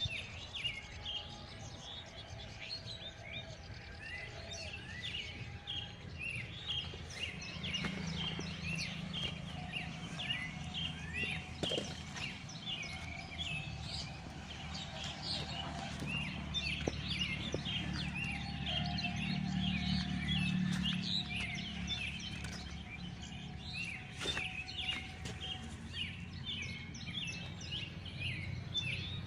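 Many birds chirping and calling together in a dense, continuous chorus of short, quick notes, over a steady low rumble that swells in the middle.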